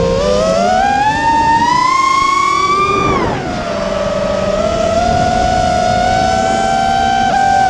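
Motors of a GEPRC Stretch X quadcopter whining in flight. The pitch climbs for about three seconds as the throttle goes up, drops sharply, then holds steadier and rises slightly.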